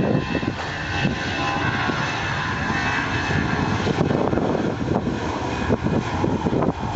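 Airbus A320's twin jet engines at takeoff power: a steady, loud roar with a fluttering low rumble and a faint whine above it.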